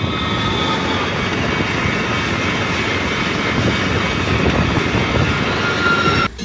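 Electric passenger train, a Taiwan Railway E1000 push-pull express, passing close by: a loud, steady rush and rumble of the train on the rails. A few steady high tones fade out in the first second.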